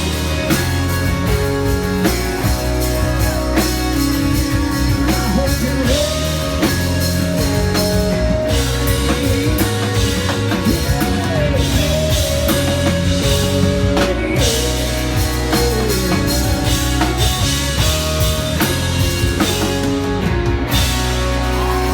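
Rock band playing an instrumental passage of the song: drum kit, bass and guitar, with a melodic lead line that slides between notes.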